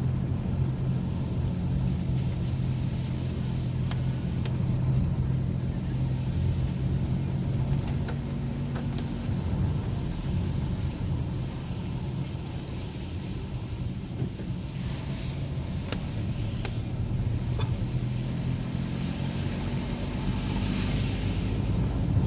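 Car engine and tyre-road noise heard from inside the moving car: a steady engine hum that eases off about nine seconds in and rises in pitch again near the end as the car speeds up.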